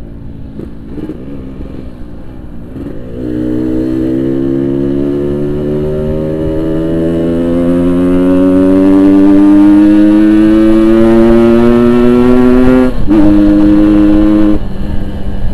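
Yamaha RX-King 135cc single-cylinder two-stroke engine through a Boban aftermarket exhaust, ridden under acceleration: its note climbs steadily from about three seconds in, breaks briefly late on, holds at a lower pitch, then eases off near the end.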